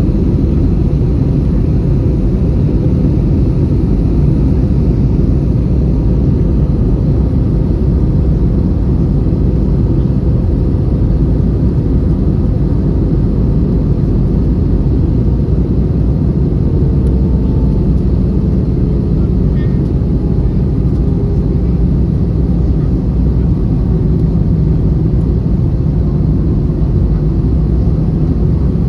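Steady low rumble of an Airbus A320's engines and airflow, heard inside the passenger cabin during the approach.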